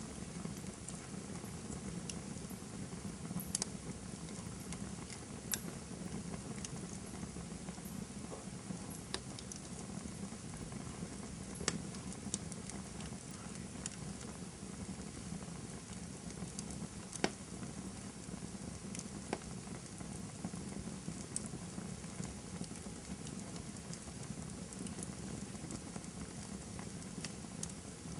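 Wood campfire burning: a steady low hiss and rustle from the burning firewood, with irregular sharp crackles and pops scattered through it, a handful of them louder than the rest.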